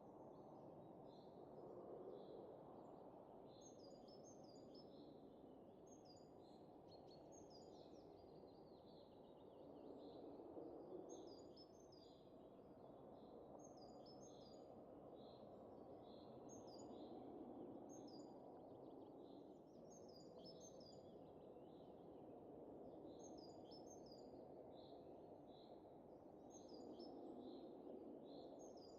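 Faint wind rushing steadily, swelling and easing in slow gusts, with small birds chirping in short, high, repeated calls over it.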